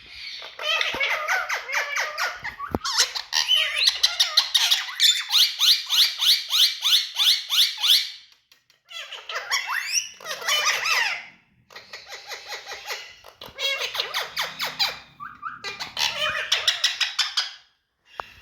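Indian ringneck parakeet chattering and squawking in rapid runs of short, harsh repeated notes. A long unbroken run comes first, then several shorter bursts with brief pauses between them.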